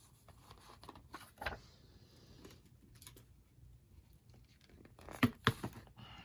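Paper being scored for a book hinge: faint scraping with light taps as the tools are handled, then two sharp clicks about five seconds in.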